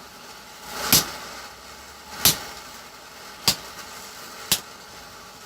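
Four sharp hammer blows on metal, about one every second and a quarter, the later ones slightly softer.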